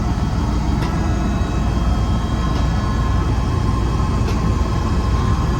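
Helicopter engine and rotor noise heard inside the cabin in flight: a steady, loud low rumble with a thin steady whine above it.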